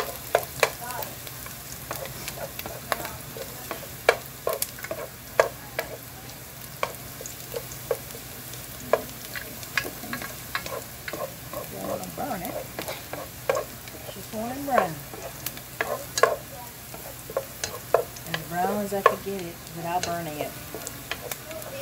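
Diced onions and garlic sizzling in hot olive oil in a nonstick pot, stirred with a spoon that clicks and scrapes irregularly against the pan as they saute toward a light brown.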